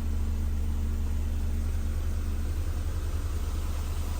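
Almost 40-year-old Mercedes-Benz engine idling smoothly: a steady low hum with no vibration or abnormal noise.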